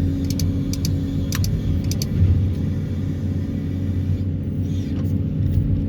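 Excavator engine running steadily under load, with a low rumble and hum, and a few sharp clicks in the first two seconds.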